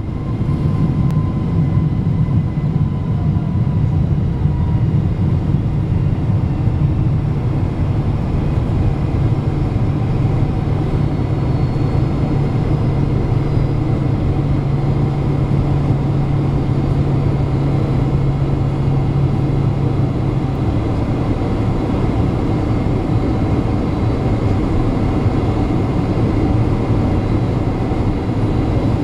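Loud, steady cabin noise inside a Boeing 767-300 jetliner: jet engines running with a low rumble, heard from a forward seat. A low hum in the rumble fades out about twenty seconds in.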